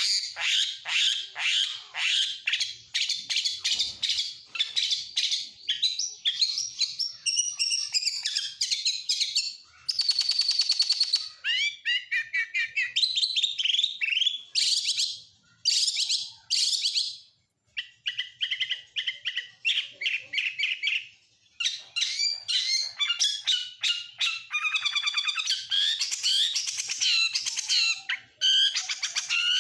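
Oriental magpie-robin singing a long, rapid, varied song of quick whistled notes and trills, full of mimicked phrases of other birds such as lovebird, canary and prinia, broken by a few short pauses.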